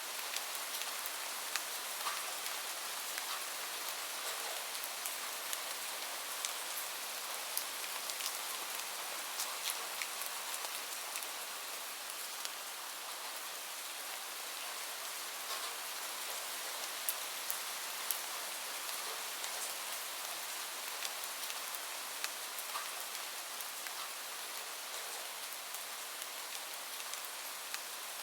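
Steady rain falling, an even hiss with many scattered drops ticking sharply through it.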